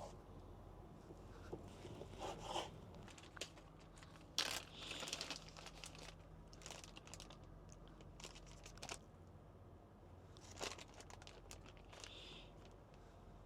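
Faint crinkling and rustling of plastic packaging being handled, with scattered small clicks and knocks.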